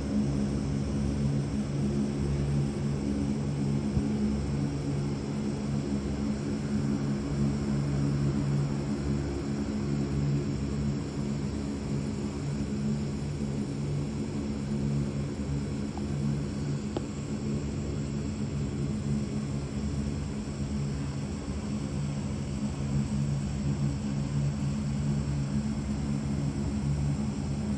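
Military aircraft's engines running steadily on the ground while it waits to take off: a low, even drone of several tones over a rushing hiss.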